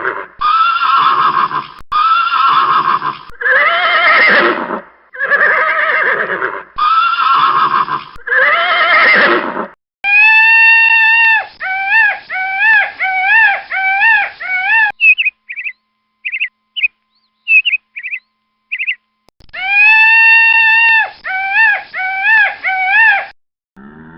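A horse neighing again and again for about ten seconds, then bird calls: a quick run of repeated pitched notes, short high chirps, and another run of notes near the end.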